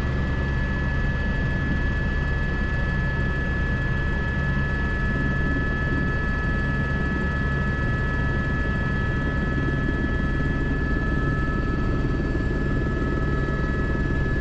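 Airbus H125 (AS350 B3) single-turbine helicopter in flight, heard from the cockpit: steady rotor and engine noise with a constant high-pitched turbine and gearbox whine.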